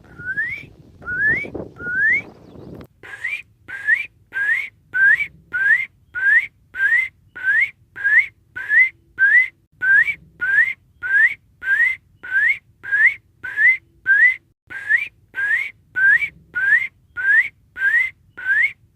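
A person imitating a spring peeper's call with the mouth: a short rising whistled "peep" shaped by a "pre" lip position, with a little air behind it. Three spaced peeps come first, then from about three seconds in the peeps repeat at a steady rhythm of nearly two a second.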